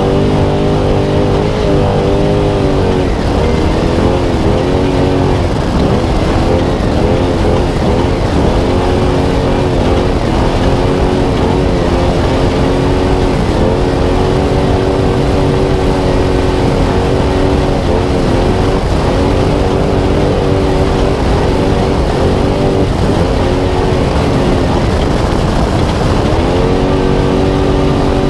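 Spec Trophy Truck's V8 engine heard from onboard at race pace, its revs constantly rising and falling with the throttle, dropping sharply and climbing back a few times. A steady rush of noise runs beneath it.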